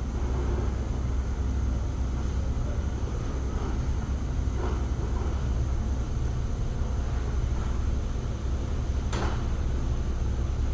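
Steady low hum, with a few light knocks; the sharpest knock comes about nine seconds in.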